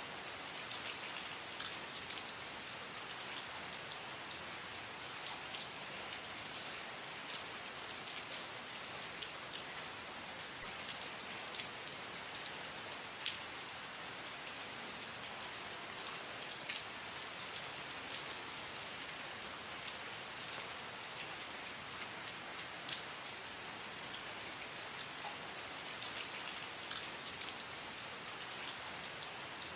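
Steady rain falling: an even hiss with many individual raindrops ticking through it.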